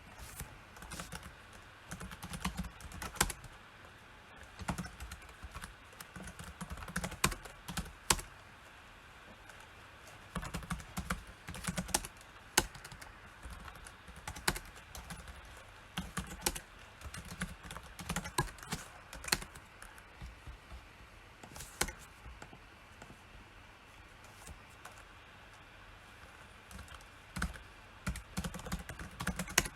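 Typing on a PC keyboard in short bursts of keystrokes with pauses between them, a few key strikes much louder than the rest, and a longer lull past the middle.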